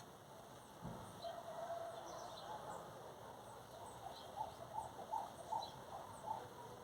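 Faint bird calls: scattered short, high chirps that slide downward. From about two-thirds of the way in, a lower call repeats in quick short notes, about two or three a second.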